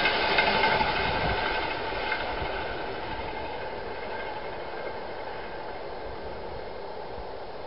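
Passenger train running past at speed and receding, its wheel and rail noise fading away over the first three seconds or so and leaving a steady low rush.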